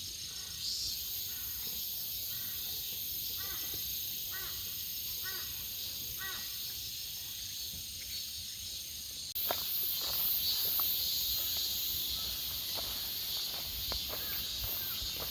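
Cicadas droning steadily while a crow caws about eight times in a regular series through the first half. About nine seconds in, the sound steps up louder and footsteps scuff along the path.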